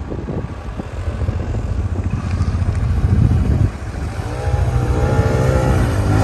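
Quad bike (ATV) engine running, uneven and rough at first, then settling into a steady pitched tone from about four seconds in. Near the end the revs dip and rise again.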